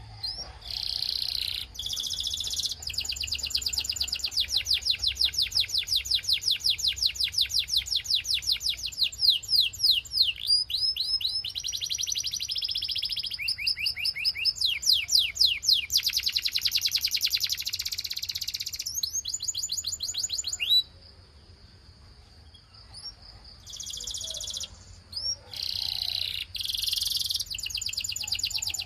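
Canary singing: fast trills of repeated notes, some rising, broken by rolling buzzy phrases, with a short pause about two-thirds of the way through.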